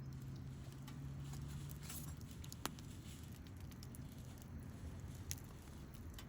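Wood fire crackling with small scattered snaps, and two sharper pops, about a third of the way in and near the end.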